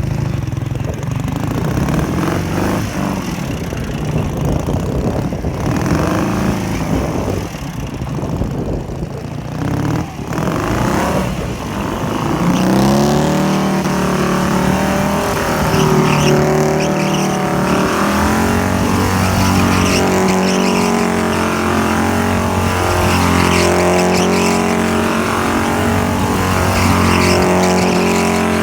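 Ural motorcycle with a Dnepr flat-twin engine of about 800 cc, running and revving hard under drifting. It sounds rough and uneven at first. About twelve seconds in, the engine note turns steadier, with pitch shifts in steps.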